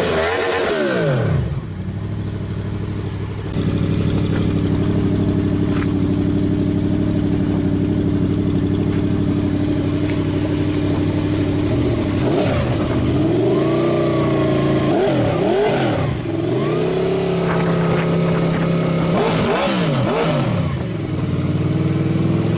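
Honda VFR800's V4 engine through a Two Sons straight-through exhaust, idling steadily between quick throttle blips. The revs drop back to idle at the start, rise and fall in a few sharp blips around the middle, and again in a short burst near the end.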